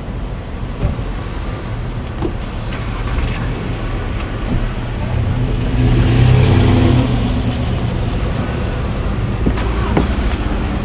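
A car engine running with road and traffic noise, swelling to its loudest about six seconds in and then easing off.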